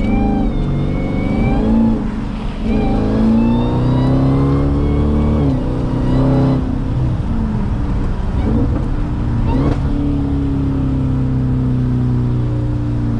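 Jeep Grand Cherokee Trackhawk's supercharged 6.2-litre V8 accelerating hard, its pitch climbing twice as it pulls through the gears. It then settles into a steady drone at cruise for the second half.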